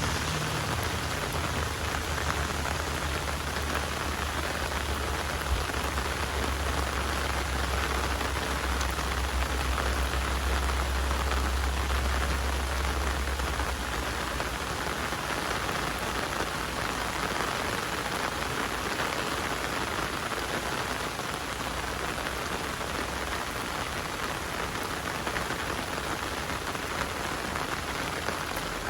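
Heavy rain falling steadily as an even hiss, with a low rumble beneath it that fades out about halfway through.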